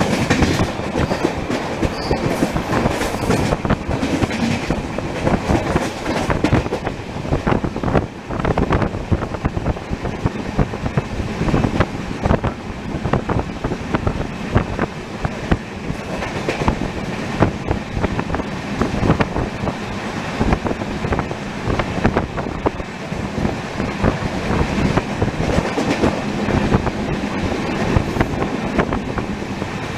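Passenger express train running at speed: a steady rumble from the coaches' wheels on the track, broken by frequent sharp clicks as the wheels pass over rail joints and points.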